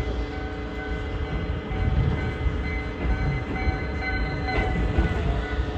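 Ichibata Electric Railway electric train running, heard from inside the car: a low rumble of wheels on the track with several steady whining tones over it, growing a little louder about two seconds in.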